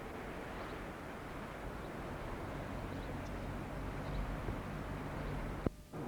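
Steady outdoor background noise with no clear single source. About five and a half seconds in, a sharp click is followed by a brief dropout where the recording cuts.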